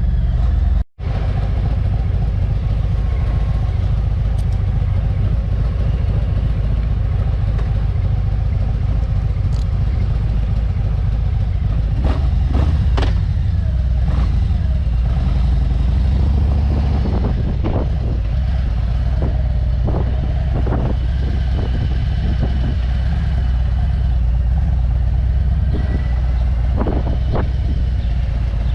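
Motorcycle engine running at riding speed under a heavy rush of wind over the microphone, with a few scattered ticks and clicks. The audio cuts out briefly about a second in.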